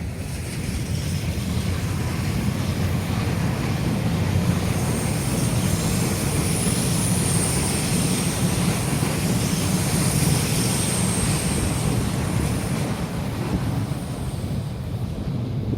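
Taiwan Railways EMU800 electric commuter train passing, a steady rumble that builds and then eases near the end, with a thin high-pitched squeal through the middle.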